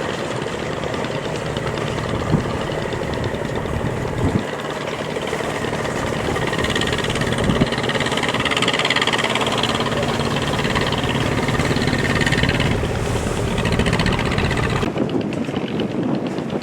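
A fishing boat's engine running steadily with a fast, even beat. About fifteen seconds in the sound changes abruptly and loses its low rumble.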